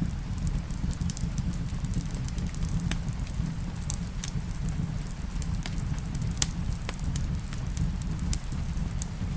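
Wood fire crackling in a fireplace: scattered sharp pops and snaps over a steady low rumble, with one louder pop about six and a half seconds in.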